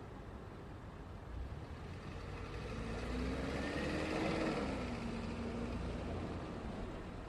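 Road traffic: a motor vehicle drives past over a steady low rumble, growing louder, peaking about four seconds in, then fading, its engine tone dropping in pitch as it goes by.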